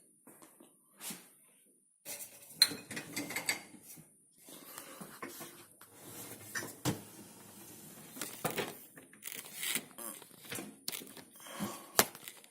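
Crockery and cutlery clinking and knocking in a dishwasher as the loaded rack is handled and pulled out, an irregular clatter of small knocks with a few sharper clinks.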